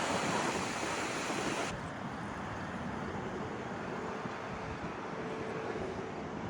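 Ocean surf washing on the beach, with wind on the microphone. About two seconds in the sound cuts abruptly to a quieter, duller steady rumble with a faint hum.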